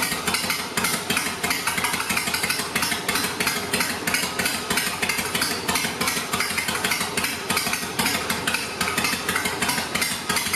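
Harley-Davidson Sportster V-twin engine idling with an uneven, pulsing beat. It is the newly swapped-in motor running.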